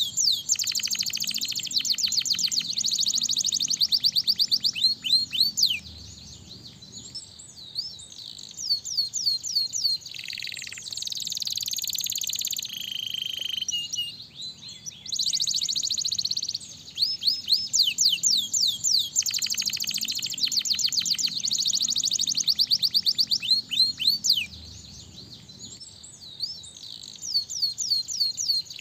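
Domestic canary singing: long runs of fast, rolling trills and rapidly repeated high chirps, in phrases broken by brief quieter pauses.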